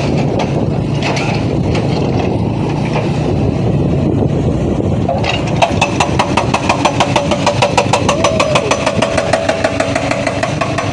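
Motorcycle engine running under a rider on a rough dirt road. About halfway through, a rapid, regular ticking pulse joins the engine sound.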